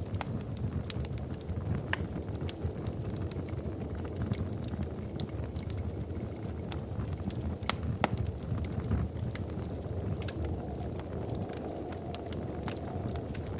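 Wood fire crackling in a fireplace: a steady low rumble of flames with scattered sharp pops and snaps, one of the loudest pops about eight seconds in.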